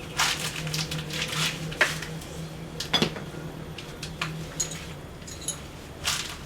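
Metal parts and tools clinking, knocking and scraping irregularly, with a few short high-pitched clinks, over a steady low hum that stops about five seconds in.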